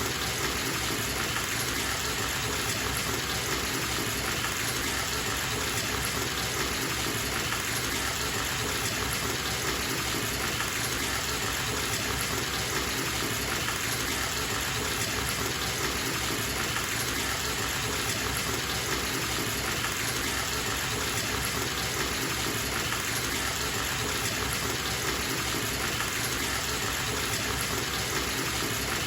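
Bathtub tap running steadily, water gushing into the tub as it fills.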